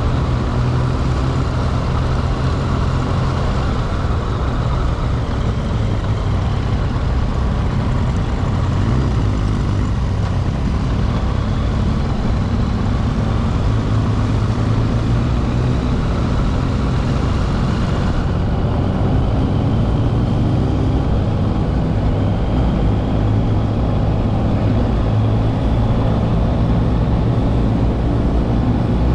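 Yamaha XSR900's inline-three engine running steadily and loud, its pitch drifting gently up and down.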